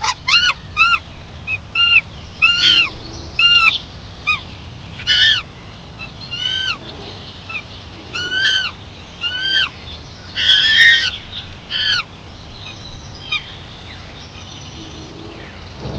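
An animal calling over and over: about a dozen short, high, arching calls, one harsher and noisier about ten seconds in, fading out in the last few seconds.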